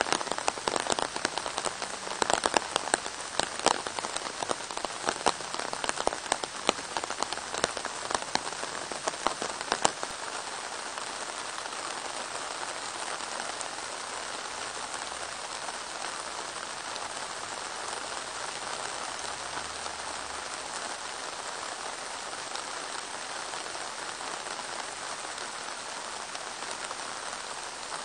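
Rain falling on a puddled gravel path and surrounding foliage: a steady hiss of rain. For the first ten seconds or so it is dotted with many loud, close drop impacts, then it settles into an even hiss.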